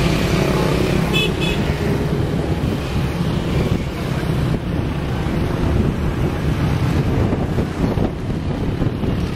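An engine running steadily under heavy wind noise on the microphone, with two short high chirps about a second in.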